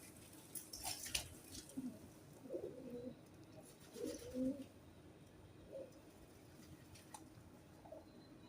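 Pigeons cooing: several low, warbling coos of about half a second each, with a few short clicks about a second in.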